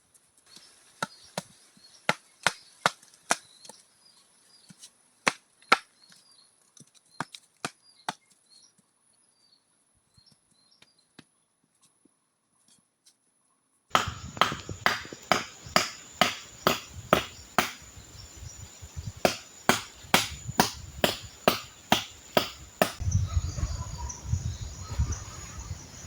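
Wood being chopped with a blade in a run of sharp strikes, about two a second, over a steady high insect drone. About halfway the background gets louder, and near the end a low rumble joins.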